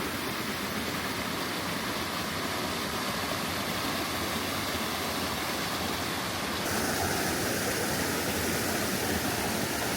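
Creek water rushing over rocks in a steady, even rush, with a small change in tone about seven seconds in.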